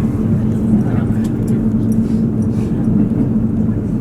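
KiHa 85 series diesel railcar under way: a steady, loud engine drone with a low hum, together with the running noise of the train on the track.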